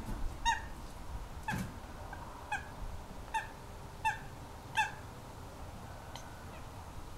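A bird calling: about six short, high notes, roughly once a second, each falling slightly in pitch.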